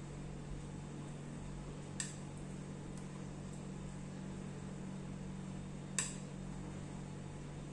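Cutlery clicking twice against a dish while eating, about four seconds apart, over a steady low hum.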